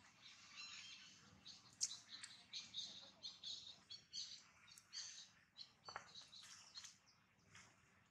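Faint birds chirping: many short, high chirps and quick trills, some in rapid runs, with no steady rhythm.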